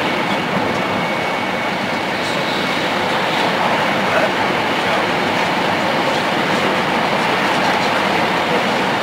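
Tohoku Shinkansen high-speed train running at speed, a steady, unbroken noise of wheels on rail and rushing air.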